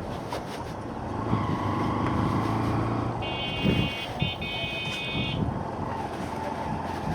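Motorcycle riding in traffic: steady engine and road noise. About three seconds in, a vehicle horn sounds for about two seconds, broken once.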